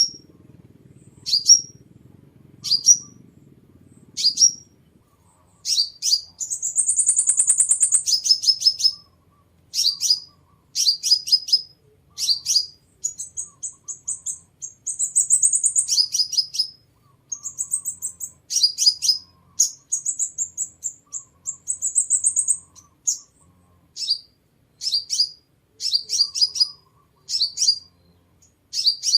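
Sunbird song: thin, sharp, high chips, single at first, then in quick runs of several. Three longer, higher rapid trills are mixed in.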